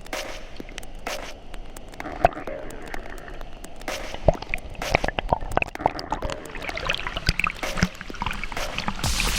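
Water splashing and dripping in irregular small splashes and gurgles.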